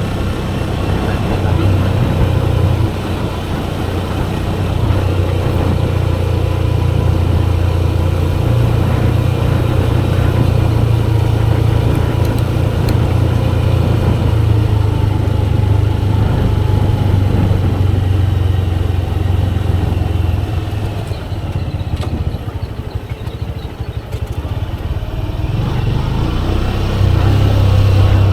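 Motorcycle engine running under way with road and wind noise, the engine note rising and falling with throttle. About three-quarters of the way through it eases off and quietens for a few seconds, then picks up again near the end.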